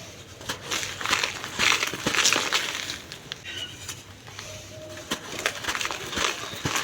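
Packed soft sand crumbling and being crushed whole, giving a run of irregular crunches and small sharp cracks.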